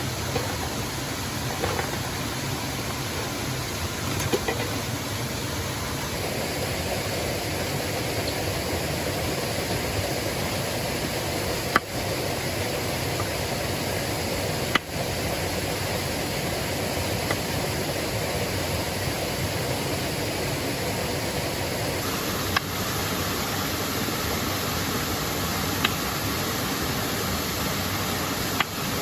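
Steady rushing water noise with a few sharp clicks or knocks. The noise changes character abruptly about six seconds in and again about two-thirds of the way through.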